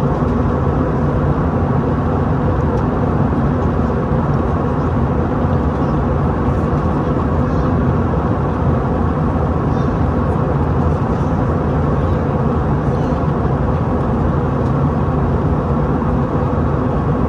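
Steady low cabin rumble inside an Airbus A321-211 airliner: its CFM56 jet engines and the airflow, with faint steady tones running through it and no change in level.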